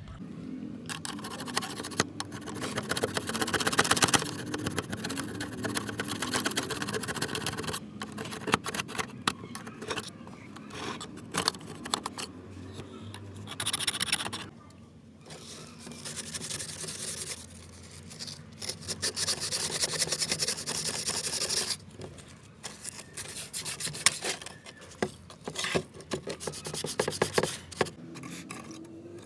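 Rubbing and scraping by hand on a hard workpiece: fast, even strokes in runs of several seconds, broken by a few short pauses.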